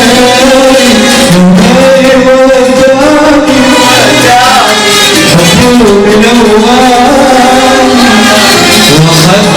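Arabic band music played loud, a sliding, ornamented melody line over a continuous accompaniment.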